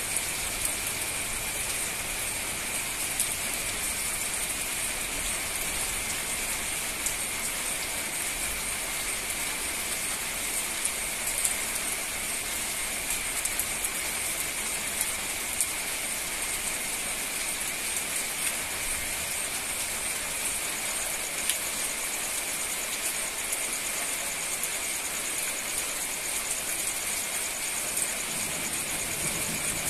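Heavy rain pouring steadily onto a paved road and garden plants, a dense even hiss with scattered sharper drop ticks.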